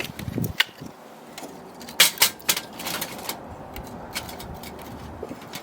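Irregular sharp clicks and knocks, a loud cluster of them about two seconds in and sparser ones after.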